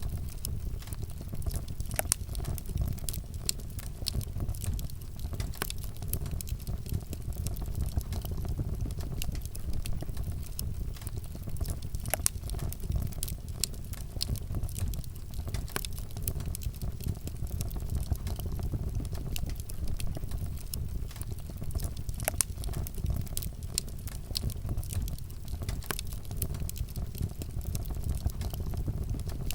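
Campfire of burning wood crackling, with irregular sharp pops and snaps over a steady low rumble of flame.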